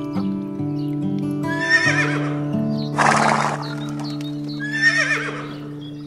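Horse whinnying twice, each high, wavering call followed by a short harsh burst of noise, over steady background music.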